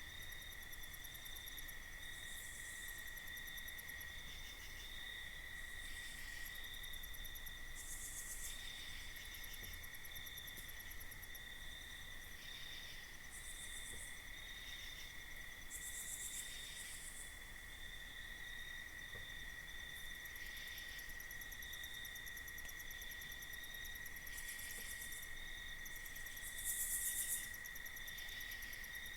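Night insects calling: a steady, high cricket trill runs throughout. Every few seconds it is joined by short bursts of much higher-pitched insect calls, the loudest burst coming near the end.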